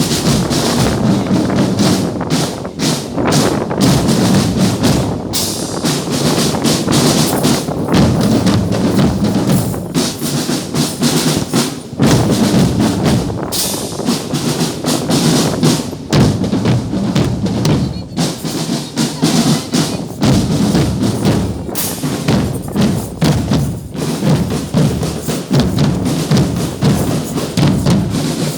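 Percussion-led music, with bass drum and snare drum strikes played continuously.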